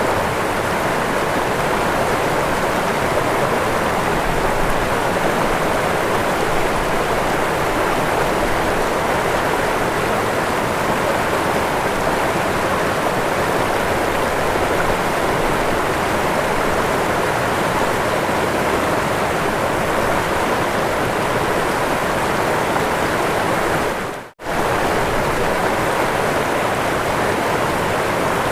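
Waterfall: a steady rush of falling water. It drops out for a split second near the end, then carries on unchanged.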